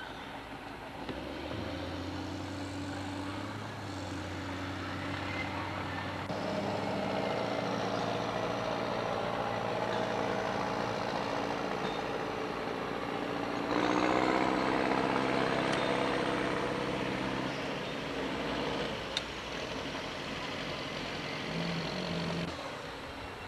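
Diesel locomotive engine running with a steady low drone, growing louder about two-thirds of the way through and dropping away near the end.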